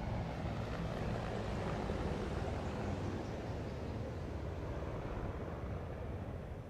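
Aircraft flying past overhead: a steady engine rumble that builds for about two seconds and then slowly fades.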